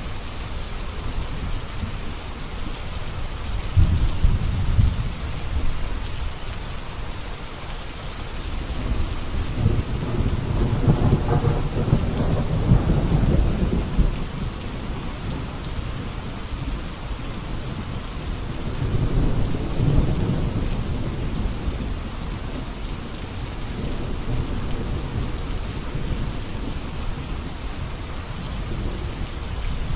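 Steady rain with rolls of thunder: a low rumble about four seconds in, a longer, louder roll from about ten to fourteen seconds, and another near twenty seconds.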